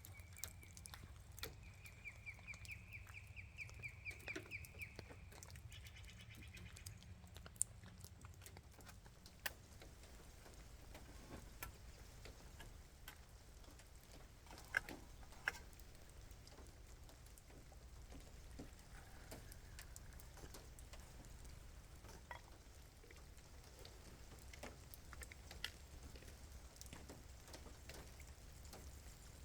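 Quiet night ambience: scattered faint drips and ticks of rain over a low steady rumble. A high trill on one note, a rapid run of pulses lasting about five seconds, sounds at the start.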